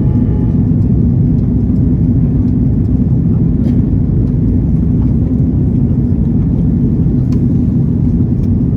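Steady low roar of an Airbus A330-200's engines and rushing air, heard inside the cabin as the airliner climbs after takeoff, with a few faint clicks.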